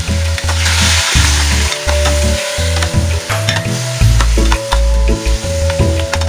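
Boiled pork hocks sizzling in a stainless steel pot while a metal spatula stirs them, with many sharp clicks of the spatula against the pot; the sizzle swells about half a second in. Background music with held bass notes plays underneath.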